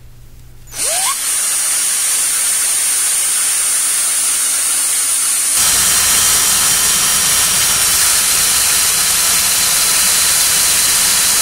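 An electric power tool switched on: its motor spins up with a short rising whine, then runs steadily with a loud hiss and a high whine. About five seconds in the sound gets deeper and fuller.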